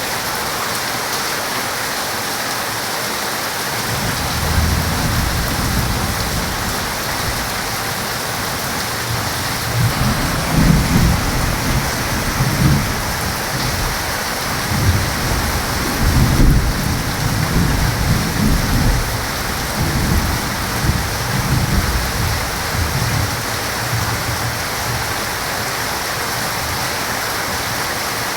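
Heavy rain falling steadily, with a long roll of thunder. The thunder begins about four seconds in, rumbles hardest through the middle and dies away a few seconds before the end.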